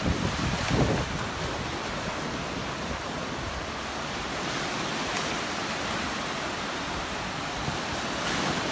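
Surf washing onto a beach, a steady hiss. Wind buffets the microphone with low rumbles in the first second.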